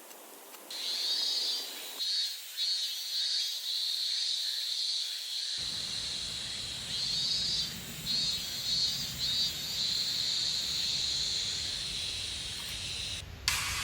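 Insects chirring in a steady high-pitched chorus that pulses and dips, with faint outdoor background noise joining about halfway through.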